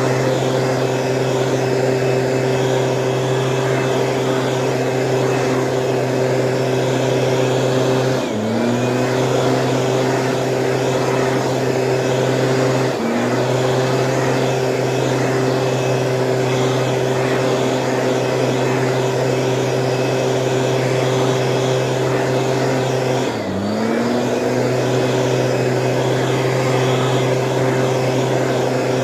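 Stihl engine of a motorised weed sprayer running steadily at high speed. Three times it dips briefly in speed and picks straight back up.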